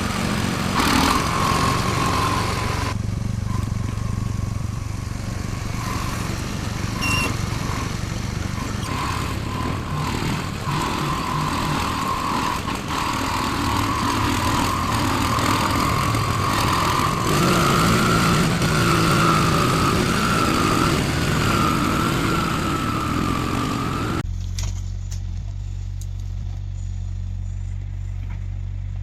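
Engine of a heavy logging vehicle running under load, a steady low drone with a wavering whine above it. Near the end the sound cuts abruptly to a steadier, duller engine drone.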